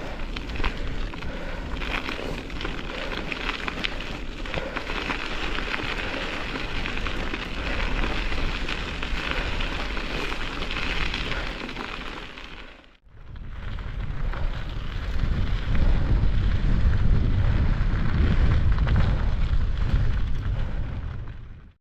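Strong wind buffeting the microphone during a mountain bike ride in high winds. The noise cuts out briefly about 13 seconds in, then returns louder and deeper.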